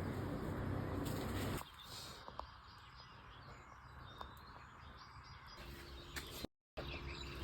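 Birds chirping faintly outdoors over a low background rumble, which drops away about a second and a half in and returns after a brief gap in the audio near the end.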